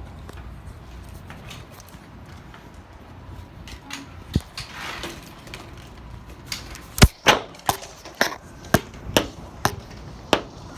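A quick run of about eight sharp knocks or clicks, roughly two a second, starting a little past the middle, the first the loudest, over a low steady rumble.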